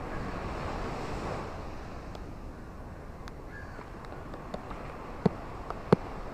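Ocean waves washing on a shore, a steady rush that swells over the first second or so and then eases. Scattered faint ticks run through it, and two sharp knocks about half a second apart near the end are the loudest sounds.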